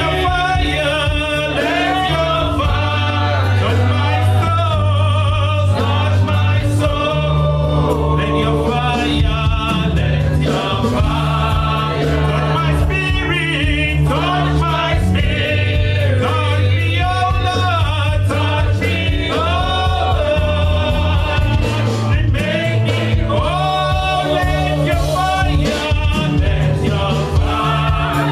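Church choir singing a slow gospel worship song over steady, sustained instrumental chords.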